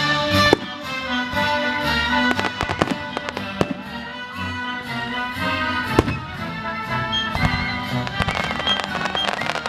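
Symphony orchestra playing sustained, held chords while fireworks go off over it, with sharp bangs and clusters of crackles: one near the start, several between about two and four seconds in, one about six seconds in, and more near the end.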